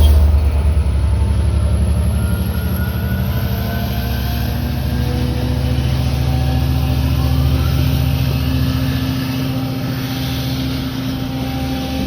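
Diesel freight locomotive engine running with a steady low rumble that slowly fades.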